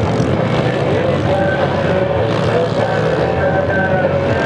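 Racing motocross motorcycle engines revving hard, their pitch rising and falling.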